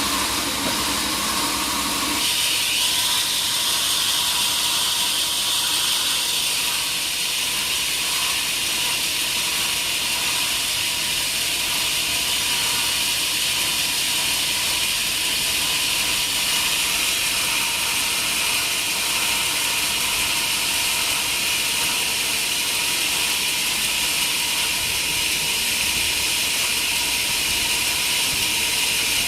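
Sawmill saw cutting through a log: a steady, loud hiss. About two seconds in, a lower machine hum gives way to the brighter hiss.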